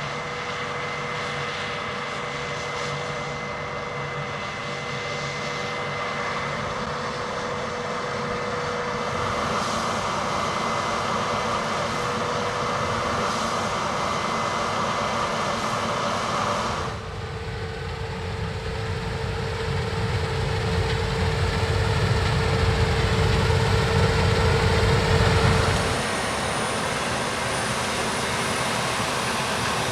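Combine harvester running under load in the field: a steady engine and machine drone with a few held whines. About halfway through it gives way abruptly to a heavier, louder low rumble that swells and then drops back shortly before the end.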